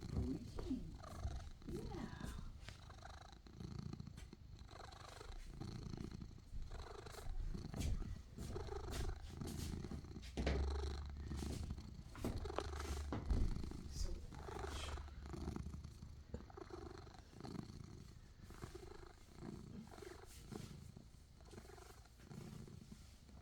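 Domestic cat purring steadily, a low continuous rumble that pulses in an even rhythm.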